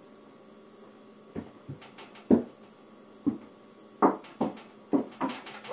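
A series of about ten irregular thumps and knocks, starting about a second and a half in, the loudest near two and a half seconds, with a quicker cluster toward the end.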